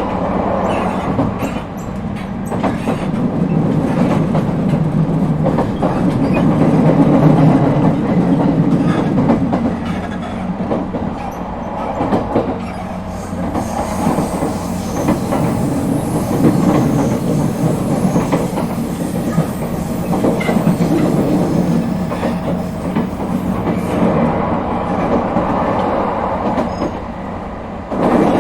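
Running sound of an Echigo TOKImeki Railway ET127-series electric train (car ET127-6, refitted with Toyo IGBT-VVVF inverter gear), heard from inside the car: a steady rumble of wheels on track that swells and eases, with repeated clacks over rail joints.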